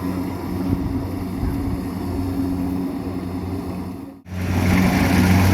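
Rice combine harvester's engine running steadily with a low, even hum. It drops out briefly about four seconds in, then comes back louder.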